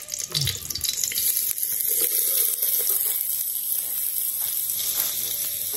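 Meat frying in a pot with garlic, a steady sizzle.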